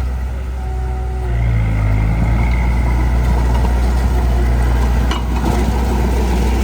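Heavy diesel engine of earthmoving machinery running, coming up in power and loudness about a second and a half in, with a single sharp knock about five seconds in.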